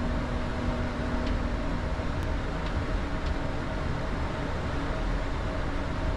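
Steady flight-deck noise of an Airbus A220-300 taxiing: ventilation hiss over the low rumble of the idling engines, with a faint hum that fades about a second in and a few faint ticks.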